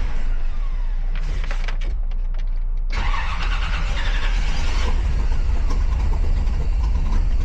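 1957 Chevrolet Bel Air engine running steadily, a low continuous hum, with the noise growing fuller about three seconds in.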